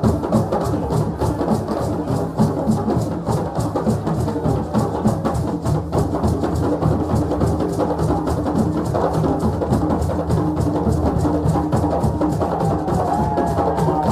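West African drumming: several drums played together in a fast, dense, steady rhythm. A faint wavering high tone comes in near the end.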